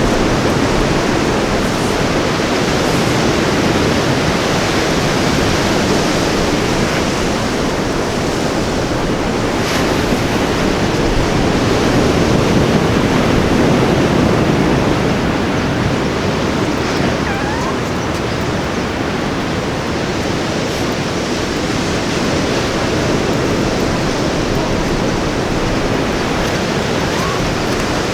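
Ocean surf breaking on a beach: a steady rush of waves that swells a little in the middle.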